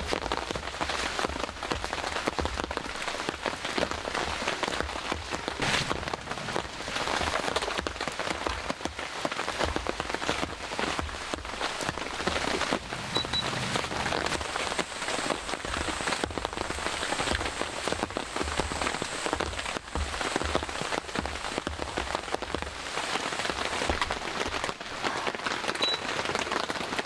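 Steady rain falling, with many drops striking surfaces close to the microphone and uneven low thuds underneath.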